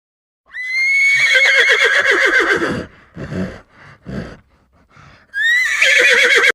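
Horse whinnying: a long quavering call, two short sounds, then a second whinny starting a little after five seconds in.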